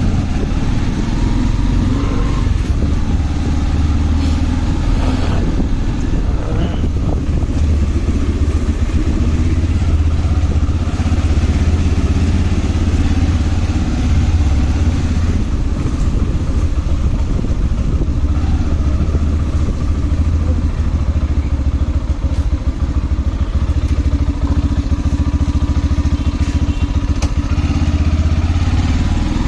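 Motorcycle running at road speed while being ridden, a steady deep rumble of engine and riding noise.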